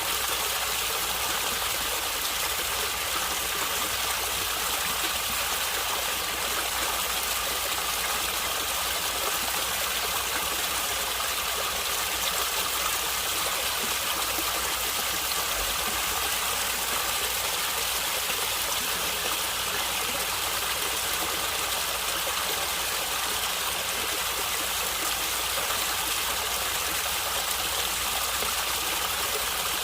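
Stream water running and gurgling over rocks, a steady even rush.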